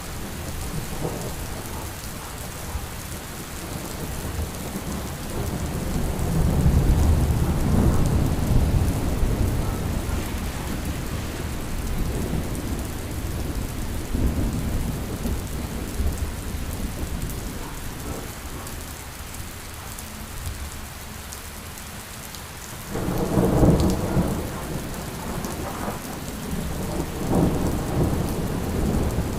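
Steady rain with thunder. A low rumble swells about six to ten seconds in, a sudden louder thunderclap comes about twenty-three seconds in, and more rumbling follows near the end.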